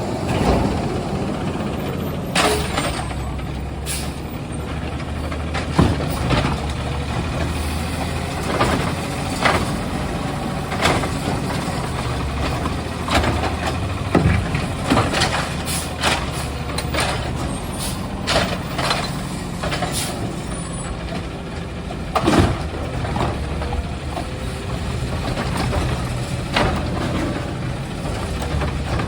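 Garbage truck engine running steadily, with many sharp clanks and bangs throughout.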